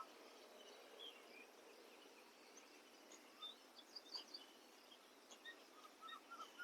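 Near silence: faint room hiss with scattered, faint bird chirps, a few more of them in the second half.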